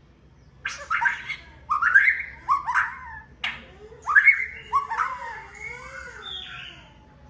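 White-rumped shama (murai batu) singing: after a brief pause, a string of sharp, rising whistled notes, then a quick warbling phrase about four seconds in that trails off near the end.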